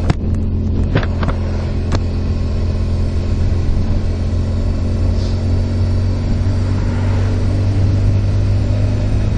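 Motorcycle engine running at a steady, even speed, with a few sharp clicks in the first two seconds.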